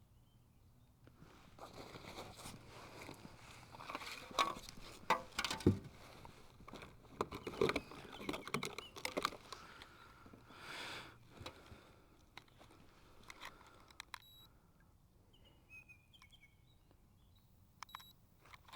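Irregular knocks, clicks and rustles of fish and gear being handled aboard a kayak, busy for the first dozen seconds, then dying down. A faint bird chirp comes near the end.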